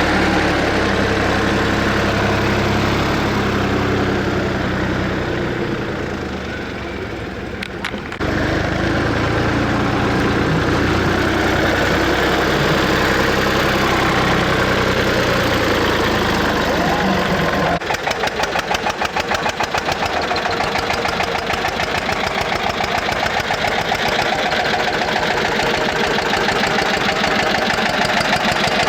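Eicher tractor air-cooled diesel engines running steadily. The sound changes abruptly about a quarter of the way in and again past the middle, where an engine with a fast, even beat takes over.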